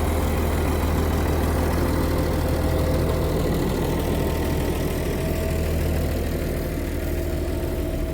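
1979 White 2-135 tractor's diesel engine running steadily, a constant low drone, while it pulls a Vermeer 605N round baler through hay.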